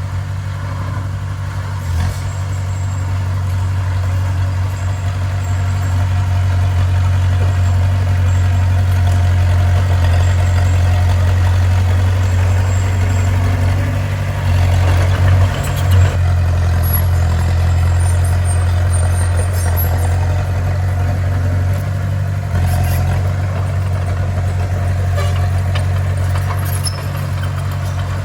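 Bulldozer's diesel engine running steadily with a low, continuous drone, with a couple of brief knocks about halfway through.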